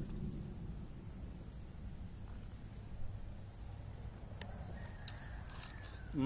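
Faint outdoor ambience: insects droning steadily at a high pitch, with a few short faint clicks in the second half.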